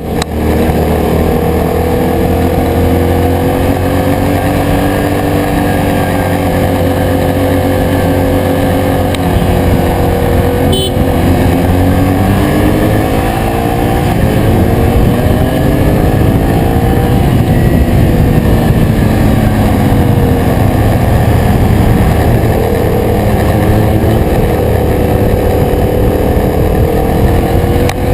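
Yamaha MT-07's parallel-twin engine running under way, its note rising and falling several times with the throttle, over a steady rushing noise.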